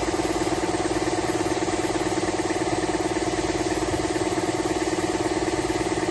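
A machine running steadily with a fast, even buzzing pulse.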